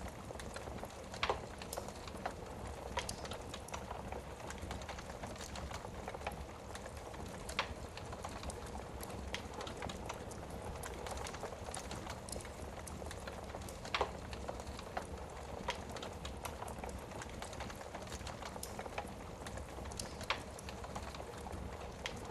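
Wood fire burning in a fireplace: a steady crackle with sharp pops every few seconds.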